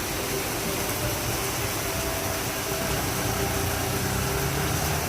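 Steady rush of heavy rain with a vehicle engine running underneath.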